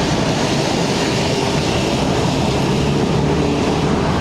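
Steady, loud rushing noise with a low rumble underneath, unchanging throughout.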